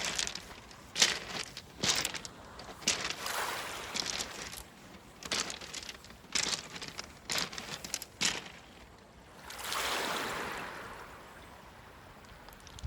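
Seawater washing among beach pebbles, with many sharp irregular clicks of stones knocking together, then a wave wash swells and fades near the end.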